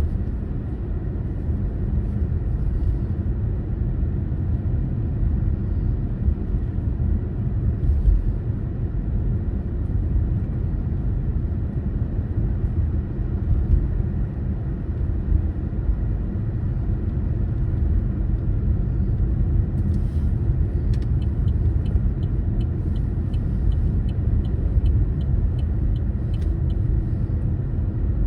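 Steady low rumble of a car driving, road and engine noise. Near the end, a run of light, evenly spaced ticks comes in at about two a second for several seconds.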